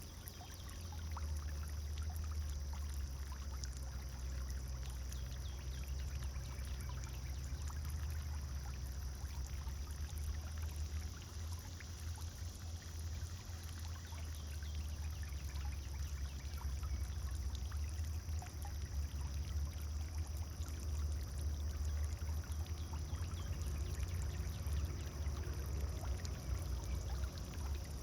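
Pond fountain running steadily, water pouring and splashing into the pond in a continuous trickle, over a steady low rumble.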